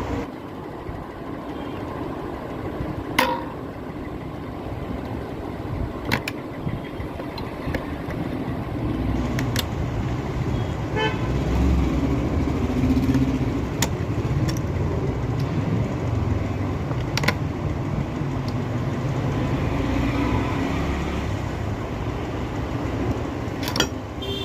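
Steady street-traffic rumble with brief vehicle-horn toots, and sharp clicks or knocks every few seconds.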